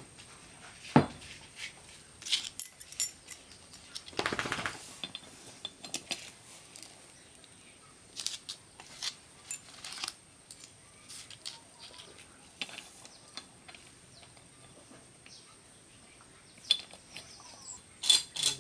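Scattered metallic clinks and clicks of tools and metal parts being handled during a repair, irregular and sharp, with a short rushing scrape about four seconds in.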